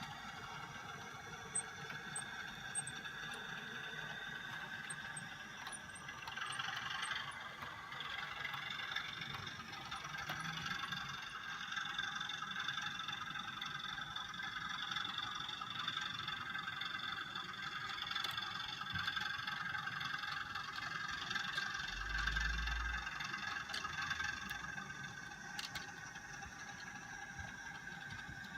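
OO gauge model train running on the track: a steady mechanical whine with light rattling and clicking.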